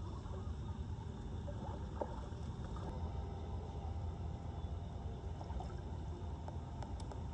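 Floodwater flowing and draining with a steady low rumble, a few faint small knocks over it.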